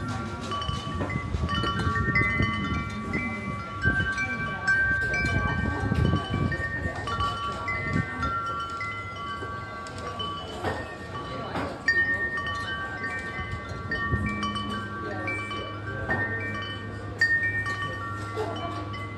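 Wind chimes ringing irregularly, many clear overlapping tones struck at random, over a low rumble.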